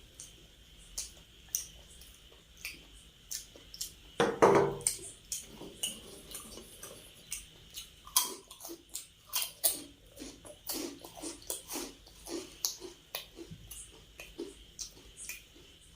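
Close-miked chewing and mouth sounds of someone eating: a steady run of small wet clicks and smacks, with one louder bite about four seconds in.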